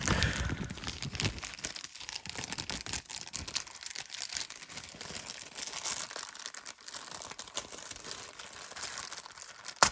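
A small plastic bag crinkling as it is handled and pulled at to get it open, with many small irregular crackles and one sharp crackle near the end.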